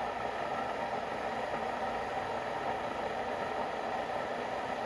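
Glass electric kettle heating water, a steady rushing hiss as the water comes up toward the boil.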